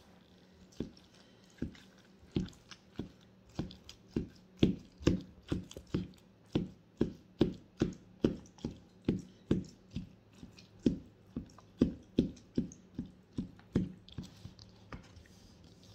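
Close-up chewing with the mouth near the microphone: a regular run of short, wet mouth smacks about two to three a second, stopping near the end.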